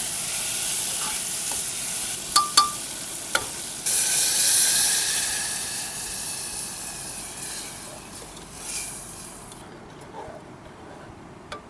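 Pulao cooking in a pan: food sizzling and frying, with a few metal clinks from the stirring spoon. About four seconds in, the sizzle jumps suddenly louder, then slowly dies down and has nearly faded out near the end.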